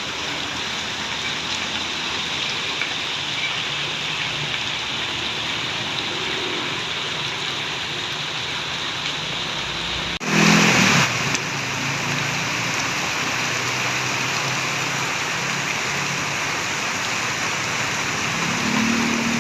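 Heavy rain falling steadily, with a vehicle engine running faintly underneath. About ten seconds in, the sound cuts off abruptly and a loud burst lasting under a second follows before the rain resumes.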